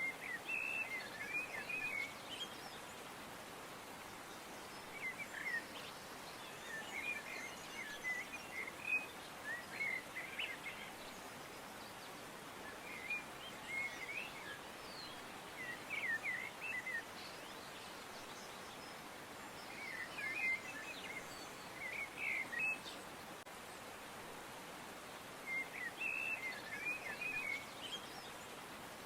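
Songbirds chirping in short bursts of quick chirps that come back every few seconds, over a steady background hiss.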